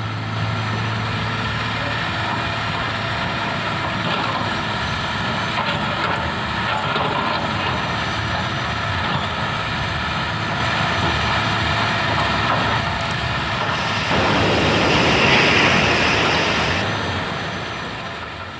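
Heavy diesel engine of an excavator running steadily. A loud hiss joins it about three-quarters of the way through and lasts about three seconds. The sound then fades out near the end.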